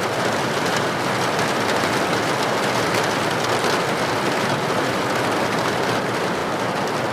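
Steady rain falling, a dense, even patter of drops with no pause or change.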